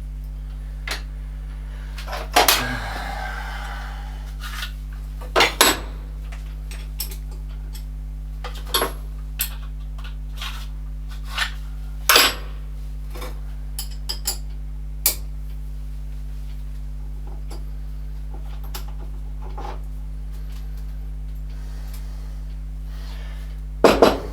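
Metal tools and parts clinking and clanking as they are handled and set down during lathe maintenance, in irregular single knocks with a short rattle after the first loud one. A steady low hum runs underneath.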